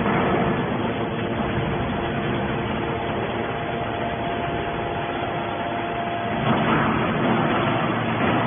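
Hydraulic scrap metal baler running: a steady mechanical hum and noise with a faint whine, growing a little louder about six and a half seconds in.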